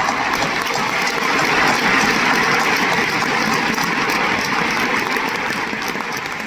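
Large crowd applauding, a dense sustained clapping that swells over the first couple of seconds and then slowly dies down.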